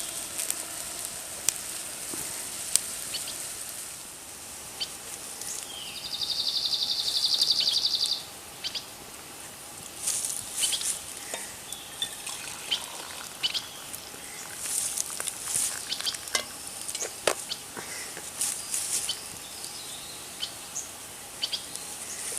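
Campfire crackling with scattered sharp pops under a pot of water at a rolling boil, with a steady sizzling hiss. About six seconds in, a loud, high buzzing trill lasts about two seconds.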